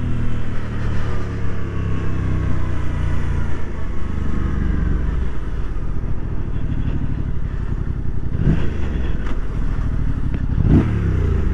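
Motorcycle engine running on the road, its pitch easing down over the first few seconds; two short louder swells come near the end.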